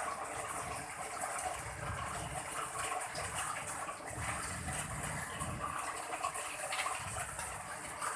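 Heavy rain pouring steadily in a windstorm, with low rumbling wind gusts swelling and fading a few times.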